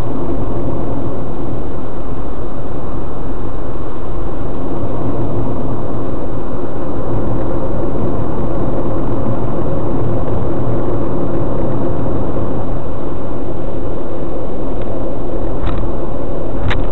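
A car running at expressway speed: a steady drone of road and engine noise, loud and unchanging, with two short clicks near the end.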